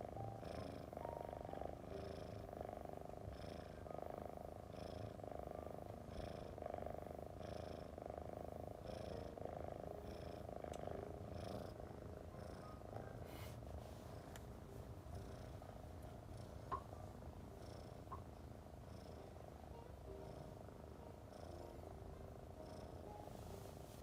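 Domestic cat purring steadily, pulsing with each breath a little under once a second. The purr softens after about halfway, and there is a faint click near the end.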